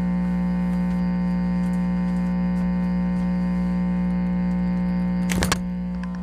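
Electric guitar amplifier humming steadily, a buzzy mains hum with many overtones, from a live guitar left plugged in through a high-gain signal. About five seconds in there is a short burst of crackling clicks from the guitar being handled.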